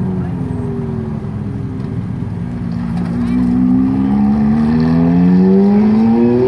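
Sports car engine accelerating hard: after an easing first couple of seconds, its pitch climbs steadily and grows louder over the last four seconds as the revs build.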